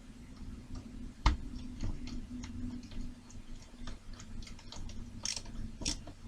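Small clicks and taps of model kit parts being handled and fitted together, with one sharper knock about a second in, over a faint steady hum.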